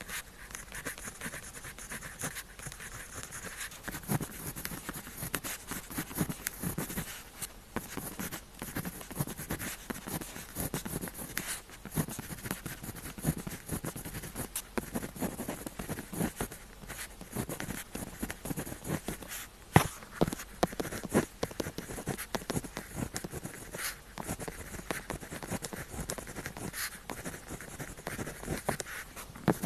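Pen tip writing on paper: an uneven run of short scratching strokes and light taps, with one sharper tap a little past the middle.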